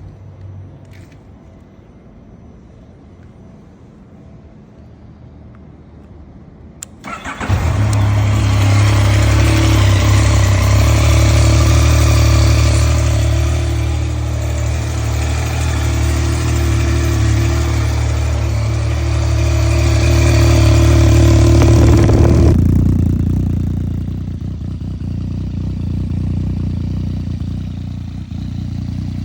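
Yamaha FZ-09's 847 cc inline-three engine starting about a quarter of the way in, then idling loudly and steadily. About three-quarters through, the sound drops abruptly to a quieter, lower running sound.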